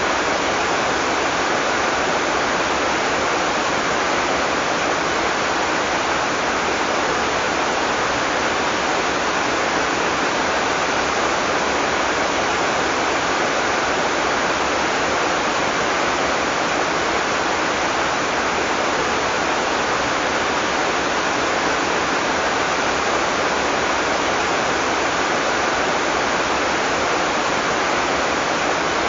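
Heavy tropical rain pouring steadily, a dense even hiss of falling water with no thunder.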